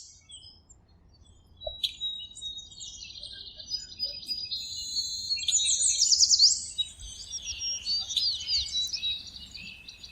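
Birdsong from several songbirds: quick high chirps and trills that begin about two seconds in, grow busiest midway with fast repeated sweeping notes, then go on as curved whistled notes.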